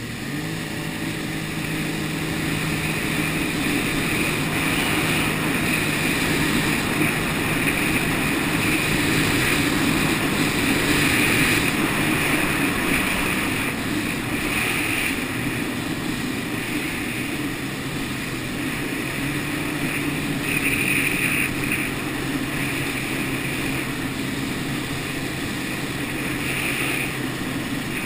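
Jet ski engine running steadily under way, a constant drone over a rushing hiss of water and air; the engine note drops slightly about halfway through.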